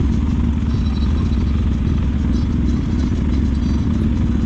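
Motorcycle running at a steady pace while being ridden, a constant low rumble of engine and road noise.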